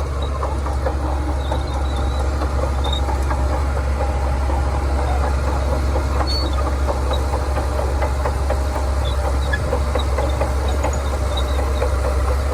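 Shantui crawler bulldozer's diesel engine running steadily under a low drone, with a constant metallic rattling over it.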